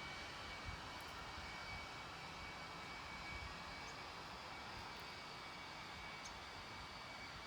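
Steady, faint outdoor background hiss with a thin steady high tone and a few soft low thumps.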